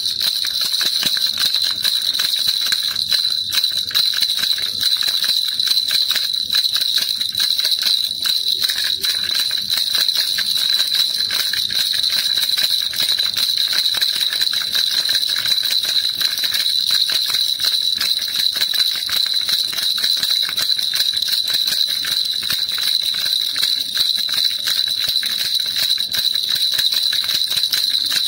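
Baby rattle shaken continuously, a dense, bright jingling that runs on without a break.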